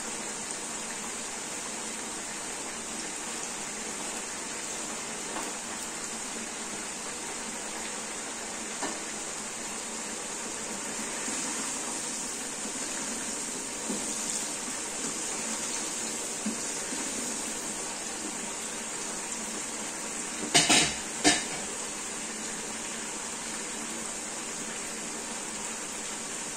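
Green beans deep-frying in hot oil with a steady sizzle, stirred with a metal slotted spoon that clinks lightly now and then. About three-quarters of the way through come three loud metal knocks of the spoon against the pot.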